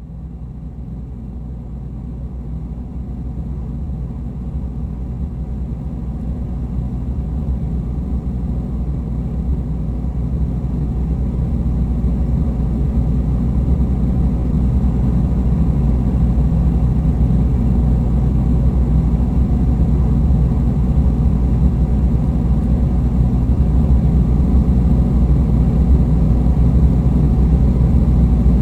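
Dark ambient electronic drone: a deep, rumbling low drone that swells in slowly over the first ten seconds or so and then holds steady, with a few sustained low tones under the rumble.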